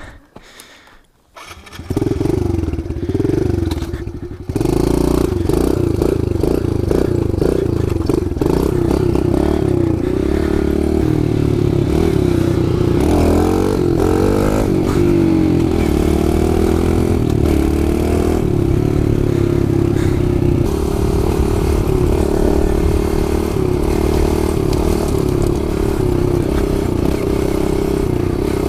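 Kawasaki KLX110 pit bike's small single-cylinder four-stroke engine starting up about two seconds in, then running under throttle as the bike is ridden. The revs rise and fall around the middle.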